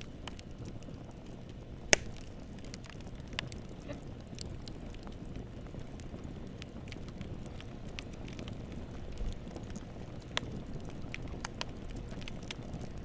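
Wood fire in a fireplace crackling: a steady low rumble of burning with scattered sharp pops. There is one loud pop about two seconds in and another near ten seconds.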